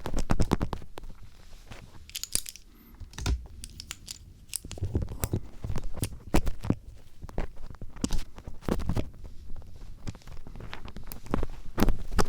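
Star screwdriver tip scraping and tapping close up for ear-cleaning ASMR: quick, irregular scratches and clicks, quieter for a stretch about two to four seconds in.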